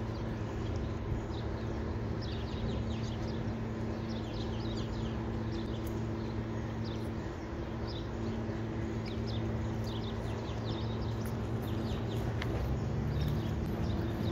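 Small birds chirping in clusters of short, quickly falling high notes over a steady low hum.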